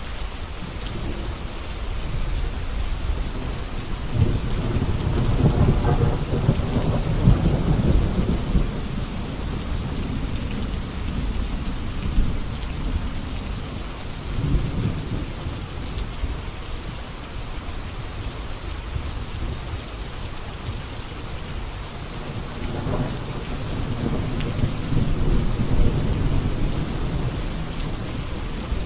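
Steady rain falling, with low rolls of thunder that swell and fade: a long one about five seconds in, a shorter one midway, and another long one in the last third.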